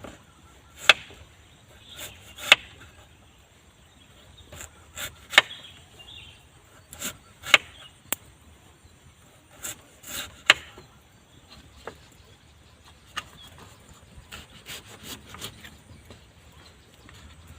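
Sharp, irregular knocks of chopping on wood, about a dozen strikes spread unevenly and some in quick pairs, with faint rubbing between them.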